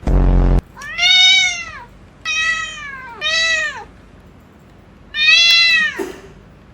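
Domestic cat meowing four times, each meow arching up and then down in pitch. A short, low buzzing sound comes just before, at the very start.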